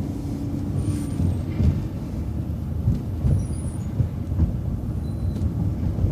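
City transit bus driving, a steady low rumble of engine and road with a few short knocks and rattles scattered through it.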